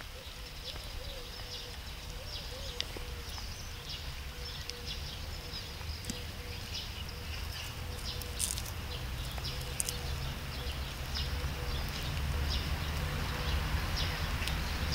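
Small birds chirping over and over. A low rumble grows louder toward the end.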